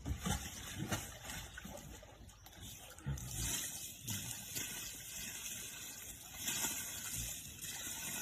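Water splashing and sloshing irregularly, with a few soft low thumps.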